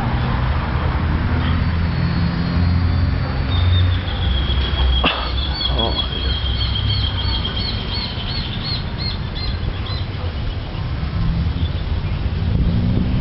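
A bird calls in a quick series of high, repeated chirps, about three a second, from about four to ten seconds in. Under it runs a steady low rumble of wind and handling noise on the microphone, and there is a single sharp click about five seconds in.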